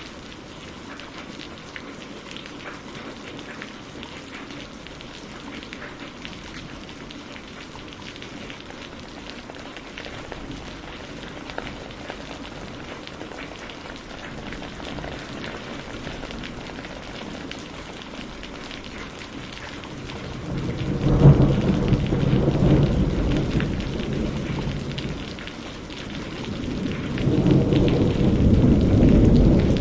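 Steady rain falling on a surface with scattered individual drop ticks. About two-thirds of the way through, thunder rumbles loudly, dies down briefly, then rolls again near the end.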